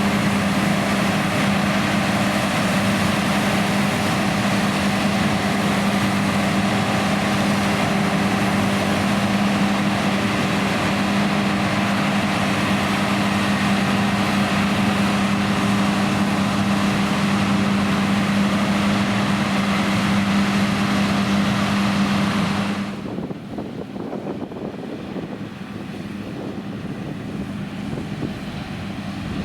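John Deere X9 1100 combine harvester running steadily under load, its engine hum and threshing noise constant. A little past three-quarters of the way through the sound drops suddenly to a quieter, duller hum.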